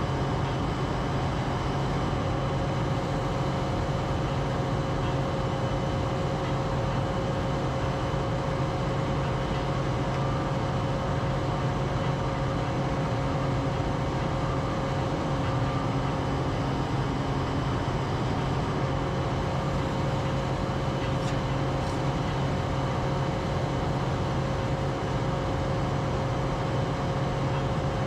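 Steady mechanical drone of an engine or motor running at a constant speed, with an unchanging hum.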